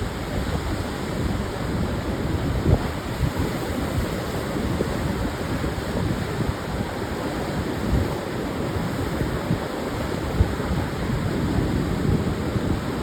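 Pacific surf breaking on a wide sandy beach, a continuous wash of waves, with gusts of wind buffeting the microphone as low thumps.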